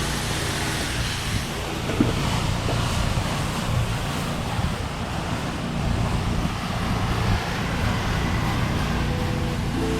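Pressure washer wand spraying a low-pressure rinse of water onto paver patio stones, a steady rushing hiss over a low hum, with one sharp knock about two seconds in. The rinse carries off algae already killed by the soft-wash chemical.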